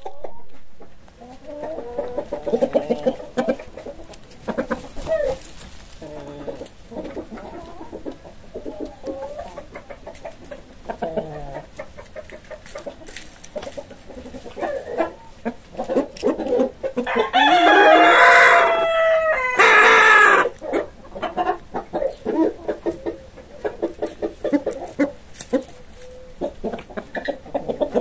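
Chickens clucking in short, repeated calls throughout, with a rooster crowing loudly once, a long call about 17 seconds in lasting some three seconds.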